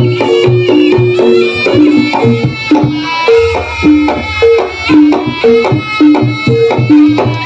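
Jaranan ensemble music: a shrill reed melody, typical of the slompret, over kendang drum strokes and repeated gong-chime notes. A low gong-like hum swells about three and a half seconds in and fades over a second and a half.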